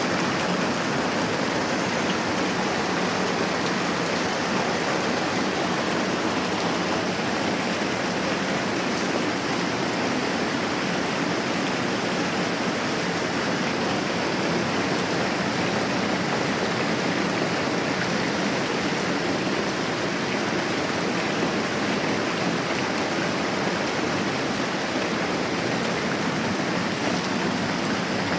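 Moderate rain falling steadily, an even unbroken hiss with no change in strength.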